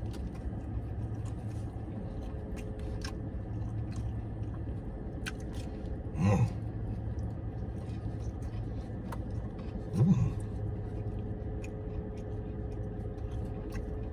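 A man chewing a flatbread sandwich, with faint wet mouth clicks, and two short closed-mouth hums of enjoyment about six and ten seconds in. A steady low hum of the car cabin runs underneath.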